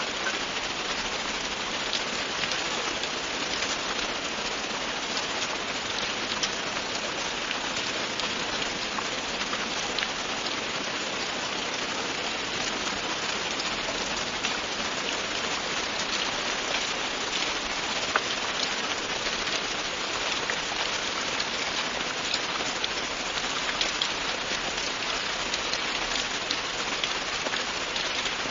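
Steady, continuous rain falling on a surface, an even hiss with scattered sharper drop ticks.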